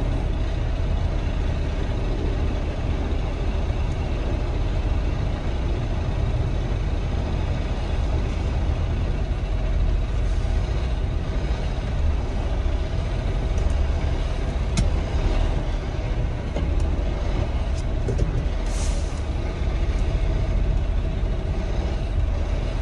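Diesel engine of a semi truck running, a steady low rumble as heard inside the cab, with a short high air hiss about three-quarters of the way through.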